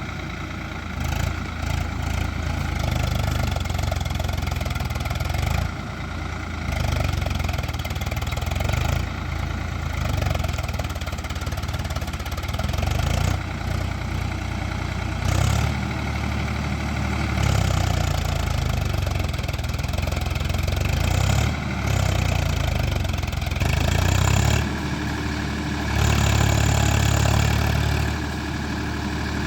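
Swaraj 4wd tractors' diesel engines running, a deep steady rumble that swells and eases every few seconds as the engines are worked during a recovery pull of a stuck tractor.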